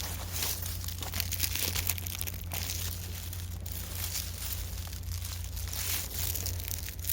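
Irregular crinkling and rustling of dry material being handled, over a steady low hum.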